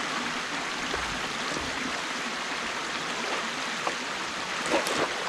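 Stream water running steadily through a partly opened beaver dam, with a few short, sharp sounds near the end.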